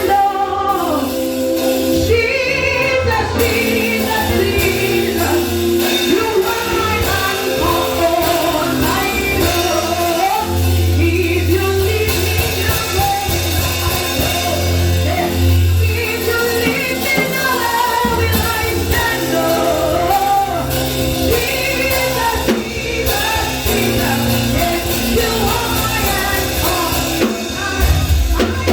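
Worship singing with instrumental accompaniment and a steady bass line.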